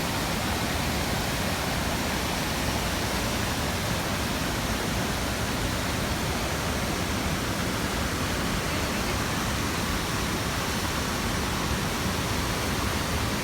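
Waterfall: falling water making a steady, even rush that holds at the same level throughout.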